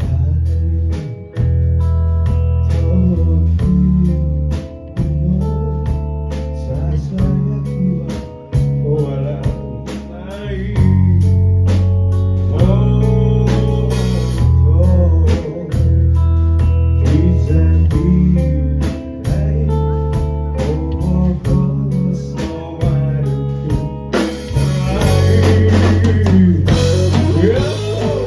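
Live rock band playing, a lead guitar line with bending, wavering notes over bass and a drum kit.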